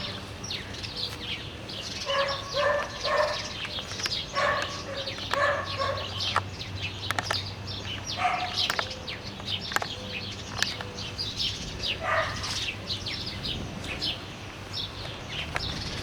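Songbirds chirping and twittering throughout, with several bursts of short repeated calls from a larger animal, and a faint steady low hum underneath.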